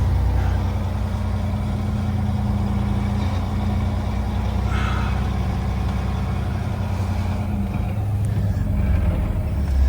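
Semi truck's diesel engine running steadily at low revs as the rig is maneuvered slowly into a parking spot.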